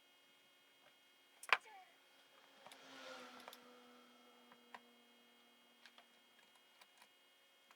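Small metal parts being handled on a workbench during an engine teardown: one sharp clink about a second and a half in, a short scraping rustle followed by a thin ring that fades over a few seconds, and scattered light ticks.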